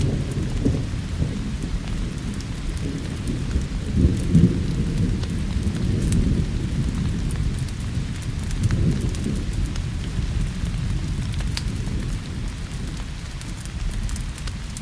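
Rolling thunder rumbling low and continuously, swelling about four seconds in and again near the middle, over a steady hiss of rain. Scattered sharp crackles of a wood fire sound throughout.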